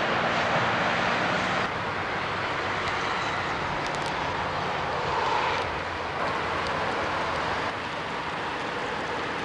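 Freight train of autorack cars rolling past, a steady rushing rumble of the wheels on the rails, which drops off abruptly after about a second and a half to a softer steady rumble of trains moving in the yard.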